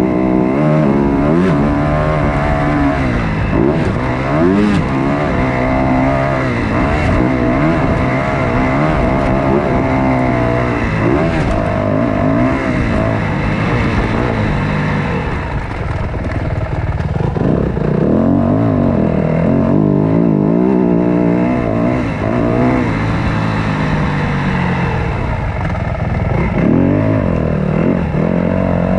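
Motocross dirt bike engine racing, revving up and down over and over as the rider works the throttle and gears around the track. The sound is loud and continuous, with a rough rushing noise over it, as picked up by a camera mounted on the bike.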